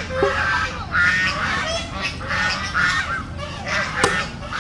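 Birds calling: a run of short, repeated calls, several overlapping, with a sharp click just past four seconds.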